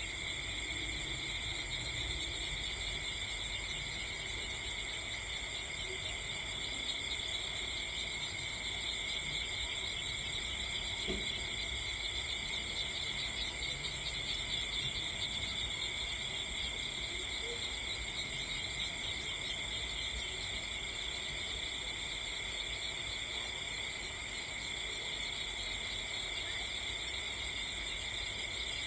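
A steady chorus of crickets chirping, several high tones held evenly without a break.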